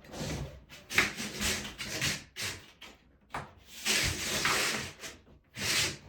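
Trowel scraping across the floor in a series of strokes of uneven length, some short and some over a second long, with brief pauses between them.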